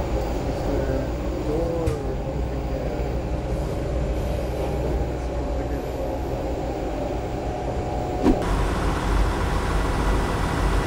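Cabin noise of an INKA-built diesel multiple-unit train under way: the diesel engine's loud steady drone under the rumble of wheels on track. A single sharp knock comes about eight seconds in.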